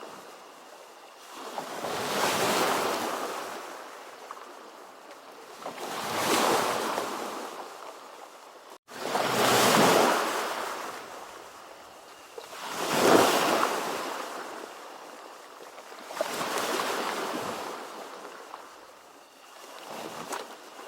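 Ocean waves surging and washing in, one after another, about every three and a half seconds, six swells in all. A brief, sudden dropout about nine seconds in cuts the sound for an instant.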